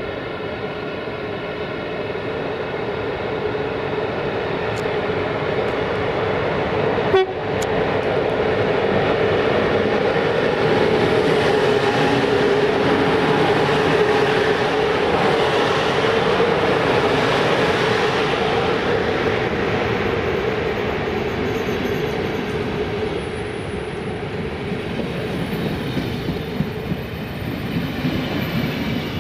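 Two electric locomotives hauling a passenger train pass close by, with a steady whine from the locomotives. About seven seconds in there is a single sharp bang. After it come the louder rumble and clatter of the passenger coaches rolling past.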